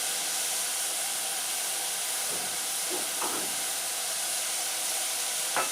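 Onions, carrots, tomatoes and spices frying in hot vegetable oil in a pan, giving a steady sizzling hiss. A short knock comes near the end.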